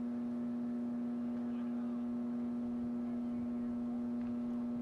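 A steady hum at one fixed pitch with overtones, unchanging throughout, with faint distant voices behind it.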